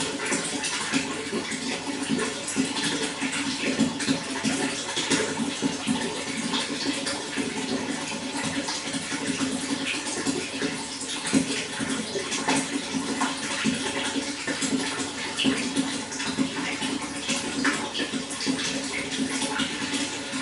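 Running water flowing steadily, with constant small splashes and gurgles.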